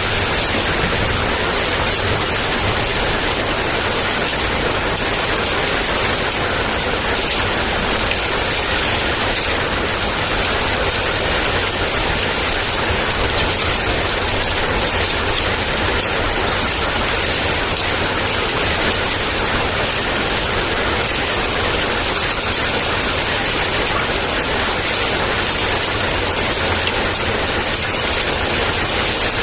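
Heavy rain pouring steadily: a dense, even hiss of downpour with a low rumble underneath.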